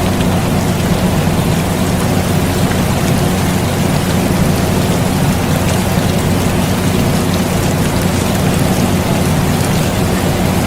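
Air conditioner running with a steady low hum, blended with steady rain and a light patter of drops.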